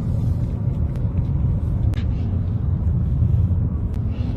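Steady low rumble of a vehicle driving, with a few faint clicks.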